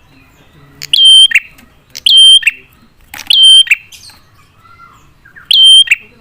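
Prinia (prenjak) calling loudly: four identical sharp calls, each a short steady whistled note that drops to a lower one, the last after a longer pause. It is a lure call used to draw other prenjak into answering.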